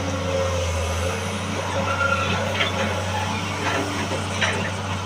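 Excavator's diesel engine running steadily, with a few sharp knocks over it.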